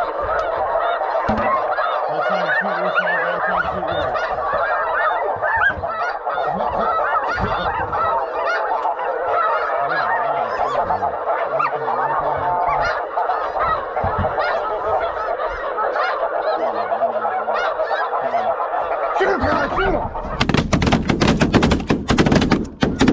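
A flock of geese honking continuously, many calls overlapping as they come in. About 20 seconds in, a rapid volley of shotgun blasts from several guns breaks out over the honking and runs to the end.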